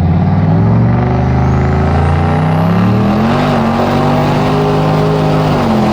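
Turbocharged Chevrolet Silverado pickup's engine under hard acceleration: the engine note climbs, dips about two seconds in, climbs again and holds, then drops near the end. A faint high whine rises along with it.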